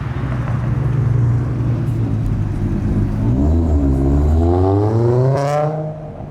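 A modified car's engine at high load: a steady, deep note, then a brief dip in pitch about halfway, followed by revs climbing steadily as it accelerates hard. The sound falls away shortly before the end.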